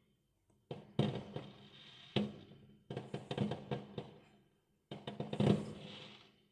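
Fireworks going off in a series of bangs, each followed by a rapid crackle that dies away over about a second. The bangs come in four bursts.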